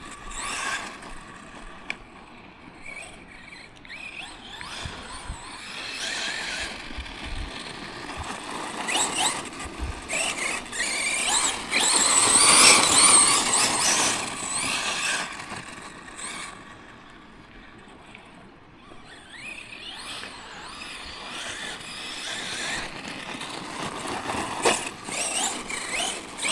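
Tekno MT410 2.0 electric 1/10 monster truck's motor and drivetrain whining, rising and falling in pitch as it is throttled up and down, loudest about halfway through.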